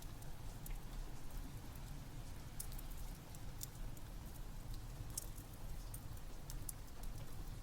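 Rain with a fireplace crackling over a steady low rumble, with scattered, irregular sharp pops from the burning wood.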